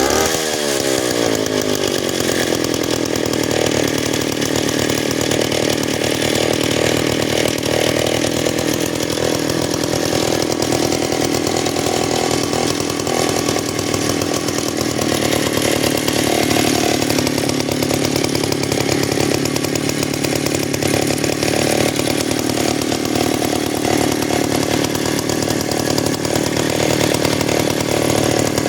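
MAW clip-on bicycle auxiliary motor, a small two-stroke engine, running. Its revs fall off in the first second or two, then it runs on at a steady speed.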